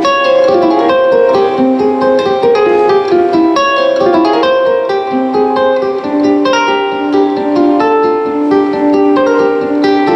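A plucked string instrument played solo in a fast, continuous stream of picked notes, several each second, with some notes left ringing over the others.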